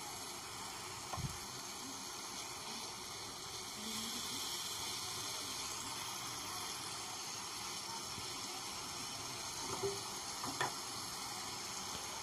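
Spice paste sizzling steadily as it fries in oil in a non-stick frying pan, with a few light knocks of a spatula against the pan about a second in and again near the end.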